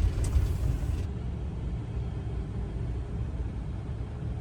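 A motor vehicle running slowly with a steady low rumble of engine and road noise.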